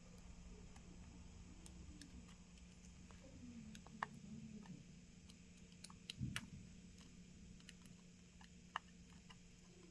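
Near silence with a few faint, sharp clicks and taps of small tools on smartphone parts as tiny gaskets are picked off, the loudest about four and six seconds in, over a low steady hum.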